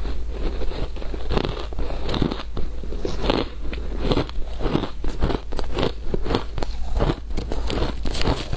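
Shaved ice being chewed, with rapid, irregular crisp crunches several times a second.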